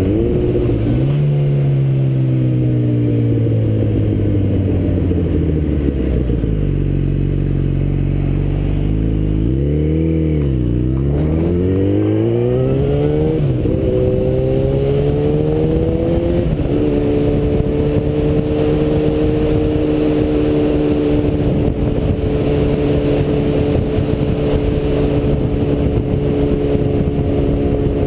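Yamaha FZ1's inline-four engine heard from a helmet-mounted camera, with wind noise on the microphone: revs fall steadily as the bike slows, dip and pick up again about ten seconds in, then climb through two upshifts before settling to a steady cruise.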